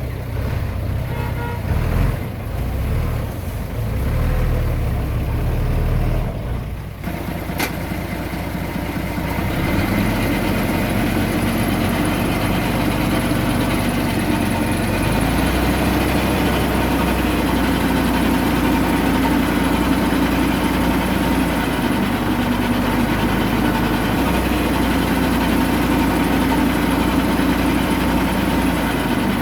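Heavy diesel engine running steadily at a low idle-like pace, settling into a constant hum about eight seconds in after a changing start.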